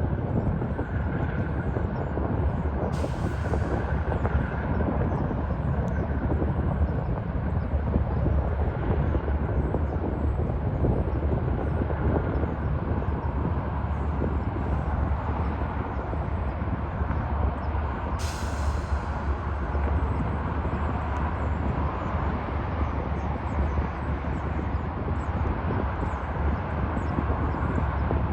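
Distant, steady low rumble of a General Electric dual-mode diesel locomotive on a Metro-North train at the station below, with two short hisses of air, about 3 seconds in and again about 18 seconds in.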